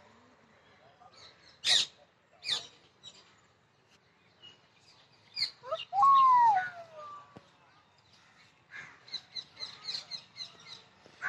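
Birds calling: two sharp high chirps in the first couple of seconds, a loud call that rises and then falls in pitch about six seconds in, and a quick run of short high chirps, several a second, near the end.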